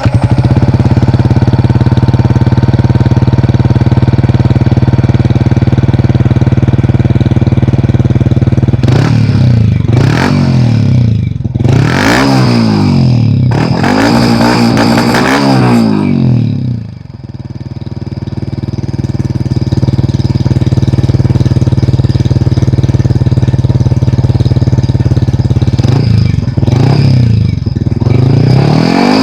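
Yamaha XSR125's single-cylinder four-stroke engine through a Yoshimura GP-Magnum exhaust, idling steadily. It is revved up and back down several times in quick succession, then settles back to idle, and near the end it is blipped twice more.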